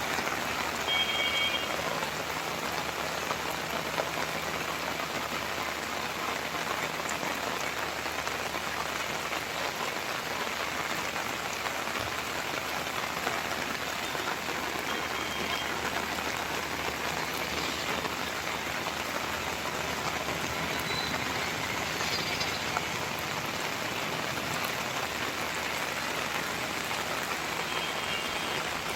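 Steady rain falling and pattering on surfaces, an even continuous hiss. A few faint short high chirps sound through it about a second in, midway and near the end.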